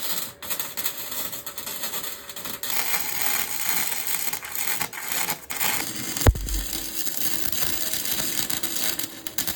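Electric welding arc crackling and sizzling steadily as a weld bead is laid, with a single sharp knock about six seconds in.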